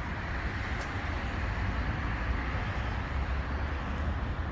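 Suzuki GSX-R1000 inline-four engine idling steadily through an M4 slip-on exhaust, a low even rumble.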